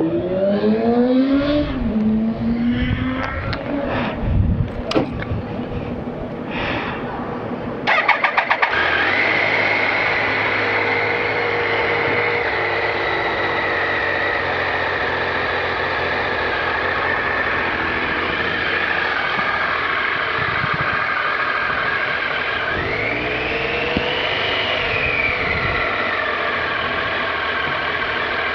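Triumph Sprint RS 955i's three-cylinder engine firing up about eight seconds in and then idling steadily, with one rev that rises and falls a little past twenty seconds. Before it starts there are uneven shifting sounds.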